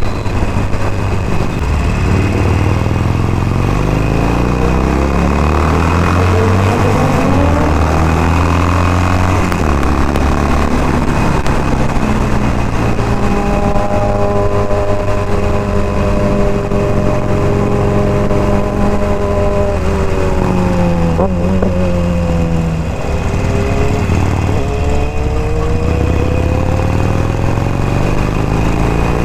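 Motorcycle engine being ridden through the gears. Its pitch rises in several pulls with shifts between them, holds steady at a cruise for several seconds, drops briefly and then climbs again near the end.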